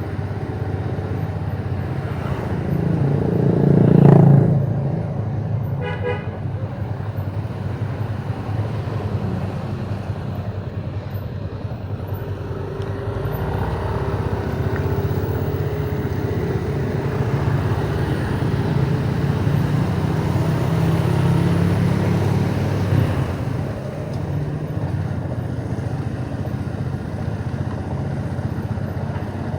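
Motorbike running at riding speed with steady engine and road noise. Traffic noise swells to a peak about four seconds in, and a horn gives a short toot about six seconds in.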